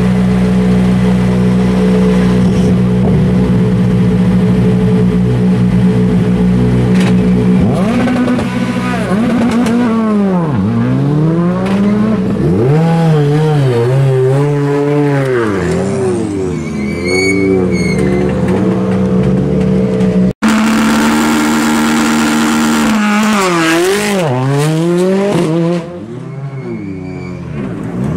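Rally car engines at high revs, the pitch rising and falling over and over with gear changes and throttle lifts. There is an abrupt cut about two-thirds of the way through, then another car repeats the same pattern, and the sound drops away near the end.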